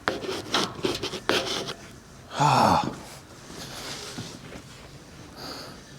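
Clicks and knocks of parts being handled while working on a tractor, with a short grunt or breath of effort about two and a half seconds in.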